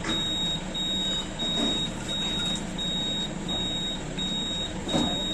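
A vehicle warning beeper, such as a reversing alarm, beeping steadily at a high pitch, about four beeps every three seconds, over a low engine hum.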